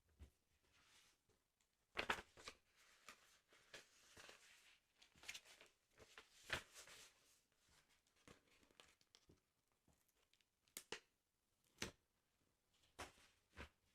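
Soft paper handling on a sticker album, close up: short rustles and crinkles of paper and stickers, with a few sharp clicks or taps near the end.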